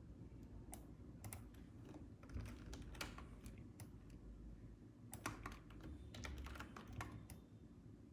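Faint computer keyboard keys clicking in short, irregular clusters, over a low steady hum.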